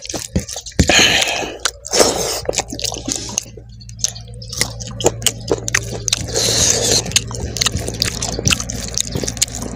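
Close-miked eating by hand: wet chewing and lip smacking of rice and pork in gravy, with fingers squishing and mixing the wet rice on the plate. A steady low hum runs underneath from about two seconds in.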